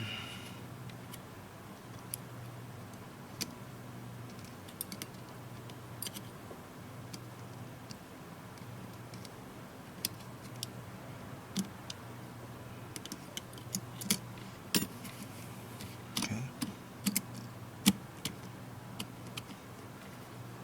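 Scattered small clicks and taps of tablet parts and tools being handled while a Samsung Galaxy Tab 3's motherboard is fitted back in. The clicks are sparse at first and come more often in the last several seconds, over a faint low hum.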